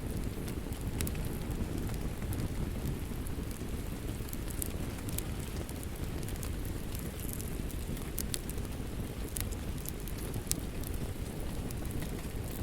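Wood fire crackling in a fireplace: a steady low rush from the flames with irregular sharp pops and snaps scattered through it.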